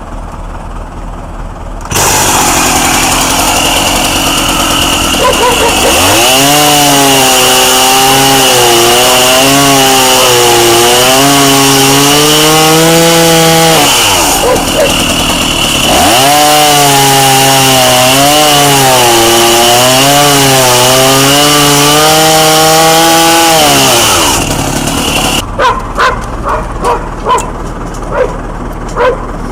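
Chainsaw running at high revs and cutting through wood twice, its engine note sagging and wavering under load during each cut and rising in the short gap between. It shuts off near the end, followed by several sharp knocks.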